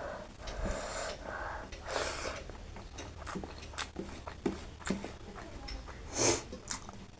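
Close-up eating sounds: scattered mouth and chewing clicks, with several sharp sniffs and heavy breaths, the loudest a little after six seconds in.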